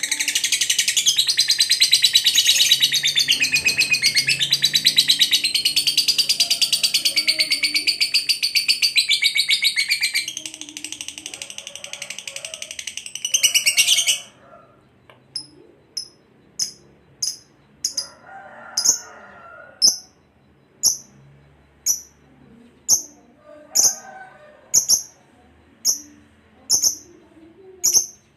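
Lovebird giving a long, rapid, buzzing chatter for about fourteen seconds. It breaks off suddenly into single sharp high chirps repeated at roughly one a second.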